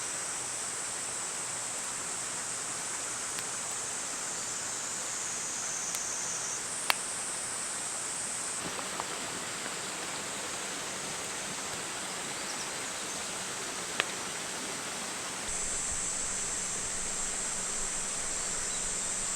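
Outdoor ambience: a steady high insect chorus over a soft even hiss, with two sharp pops about seven seconds apart. The background shifts abruptly a few times.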